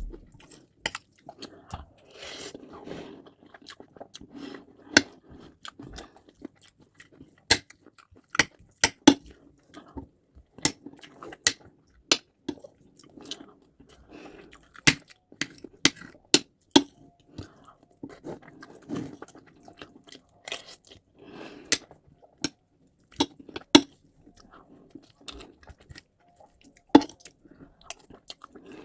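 Close-up eating sounds: chewing and swallowing mouthfuls of white rice and stew, with many sharp wet mouth clicks and the odd tap of a spoon or dish.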